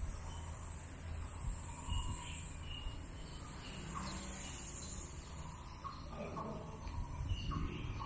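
Birds chirping in short calls here and there over a steady high-pitched hiss and a low rumble.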